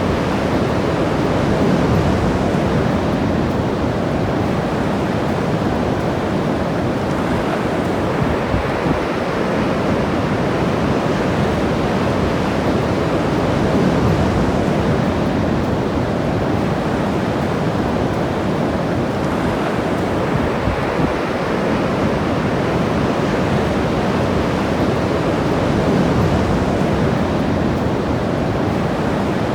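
Ocean surf breaking and washing up the beach: a steady rush of water that swells and eases every several seconds.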